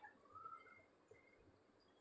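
Near silence: room tone, with a faint, short chirp-like tone about half a second in.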